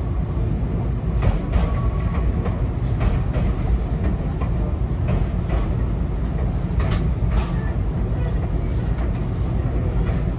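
Enoden electric train passing slowly on the adjacent track, its wheels knocking irregularly over rail joints and points above a steady low rumble.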